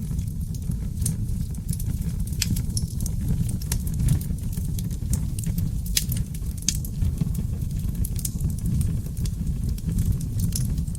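Wood fire in a fireplace crackling, with many small irregular snaps and pops over a steady low rumble of the flames.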